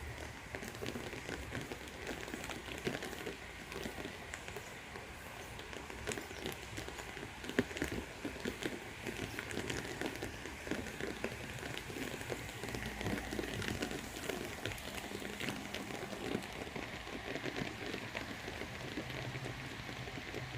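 Heavy rain falling steadily, a dense patter of individual drops over a continuous hiss, with one sharper tap about seven and a half seconds in.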